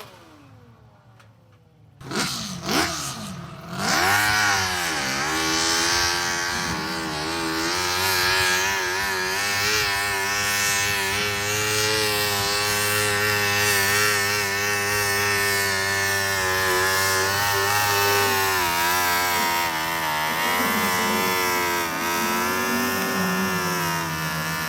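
Modified pulling garden tractor's engine revving up with a couple of quick blips, then held at full throttle with a wavering pitch for about twenty seconds, under load on a pull. The pitch sags briefly a few seconds before the end.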